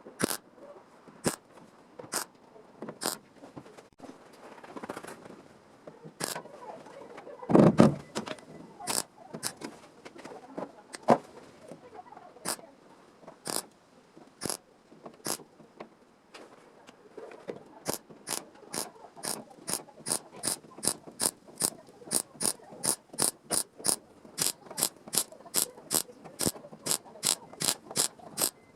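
Sharp mechanical clicks from hand-tool work, spaced irregularly at first. There is one heavier thump about eight seconds in, then a steady run of about three clicks a second.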